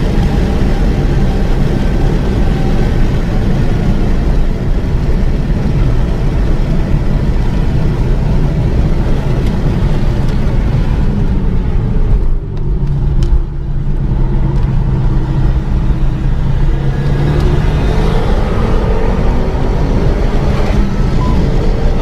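Renault Mégane 3 RS Trophy's turbocharged 2.0-litre four-cylinder engine pulling hard at speed, over heavy road and wind noise. About halfway through, the engine note briefly drops away, then climbs steadily in pitch again.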